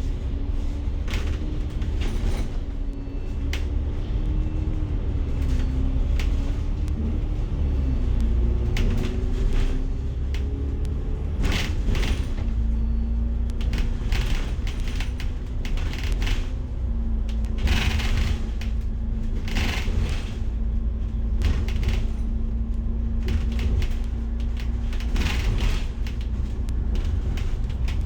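A bus in motion, heard from inside: deep engine and road rumble with a droning tone that wavers in pitch for the first dozen seconds, then holds steady, and frequent clicks and rattles from the bodywork.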